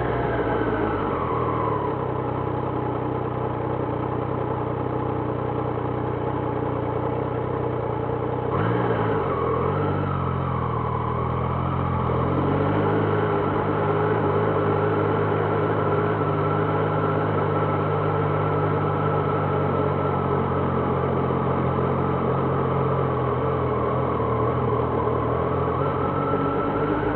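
2026 Triumph Trident 660's three-cylinder engine. Its revs fall away in the first two seconds and settle low. About eight seconds in, the revs climb and dip for a few seconds as the bike pulls away, then hold steady.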